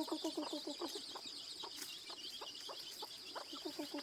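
A mother hen clucking in quick runs as she eats, once at the start and again near the end, with faint high peeping from her chicks throughout. A steady high-pitched whine runs underneath.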